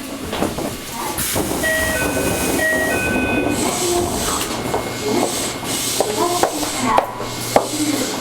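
Inside a Toei 5300-series electric train at a station stop: a short electronic melody of stepped, alternating tones plays over the train's steady hum and hiss.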